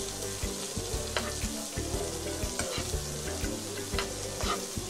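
Chopped green onions sizzling as they fry in a nonstick frying pan, stirred with a metal spoon that scrapes and clicks against the pan now and then.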